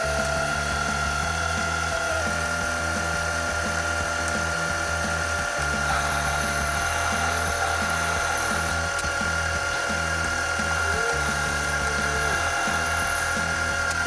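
Metal lathe running with a steady whine while machining an aluminium part.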